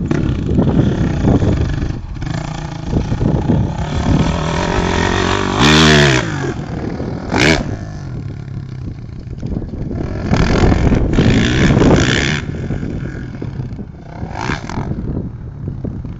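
Honda CRF450 motocross bike's single-cylinder four-stroke engine revving up and down as it is ridden, with a sharp swoop in pitch about six seconds in and louder surges later on.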